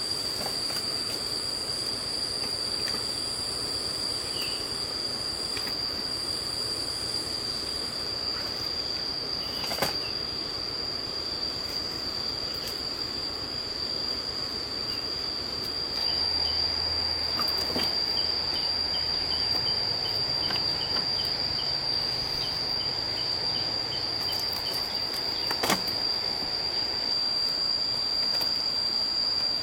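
Steady high-pitched insect drone over the rush of stream water, with a few sharp knocks.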